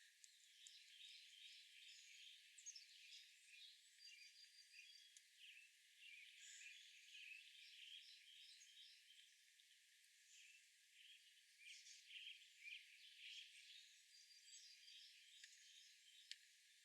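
Faint songbirds chirping and twittering: a steady run of short, high notes with a few brief whistles.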